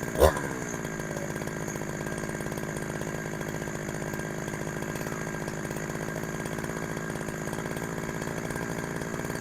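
Chinese clone of a Husqvarna 372XP two-stroke chainsaw, fitted with a genuine Husqvarna carburettor, idling steadily. A short throttle blip comes just after the start, and the revs drop straight back to idle.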